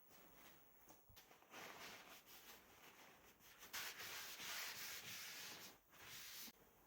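Faint rubbing sounds in two stretches, a short one a second and a half in and a longer, louder one from nearly four seconds in until shortly before the end.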